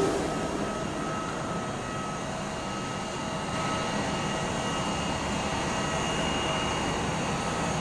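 Jet engines of a Bombardier CRJ1000 airliner running steadily: an even rush with a few high whining tones held through it.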